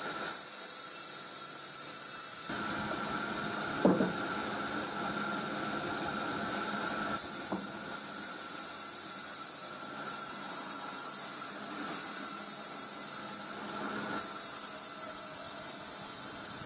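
Sawmill saw running steadily through a coconut log, a continuous hiss with a steady whine and a low hum. There is a sharp knock about four seconds in and a lighter one a few seconds later.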